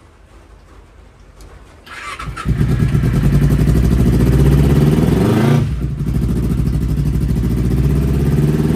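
A motorcycle engine is cranked on the electric starter and catches about two and a half seconds in, then runs steadily at idle. Its sound dips briefly near the middle and picks back up.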